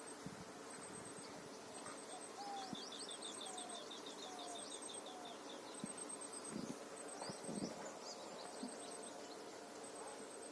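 Outdoor natural ambience of birds calling: a high short chirp repeating about once a second, a rapid trill of notes for a few seconds in the middle, and a few short falling whistles in the first half, over a faint steady background hum.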